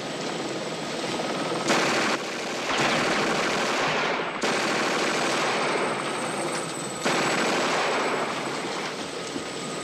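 Loud, rapid, steady rattling from an action-scene soundtrack, jumping abruptly in level several times.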